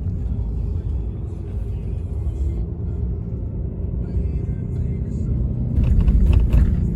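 Steady low road and engine rumble of a pickup truck heard from inside the moving cab, with background music over it; the rumble grows louder and rattlier for about a second near the end.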